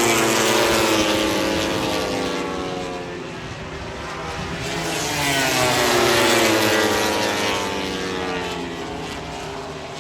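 MotoGP racing motorcycles going past on track, their engines coming in two loud waves about five seconds apart, each falling in pitch as the bikes pass.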